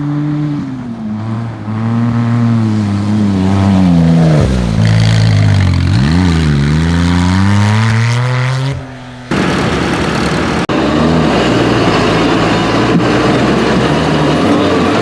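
Tractor engine running under changing load, its pitch sagging and then climbing as it revs back up. About nine seconds in the sound cuts to another, rougher and noisier engine running steadily.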